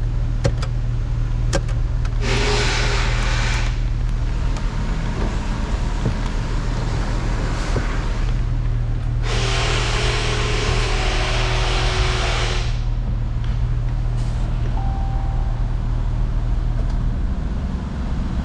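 Steady low engine hum throughout, with two bursts of hissing: a short one about two seconds in and a longer one of about three seconds starting near nine seconds in.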